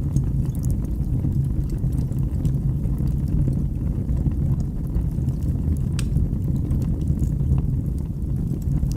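Wood fire burning in a fireplace: a steady low rumble of the flames with scattered sharp crackles, one louder pop about six seconds in.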